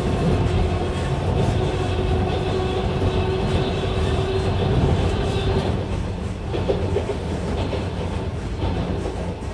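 A train running, as heard from inside a carriage: a steady rumble, with a steady hum that stops about halfway through.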